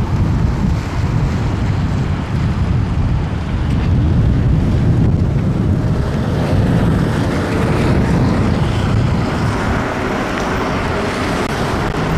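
Wind buffeting the microphone of a chest-mounted camera on a moving e-bike, a steady low rumble. A hiss from the wet road and rain joins it, growing about halfway through.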